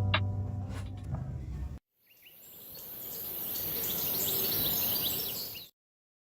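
Background music fading out, then after a short gap an outdoor ambience fades in: birds chirping over a steady, very high insect buzz and a soft hiss. It cuts off abruptly near the end.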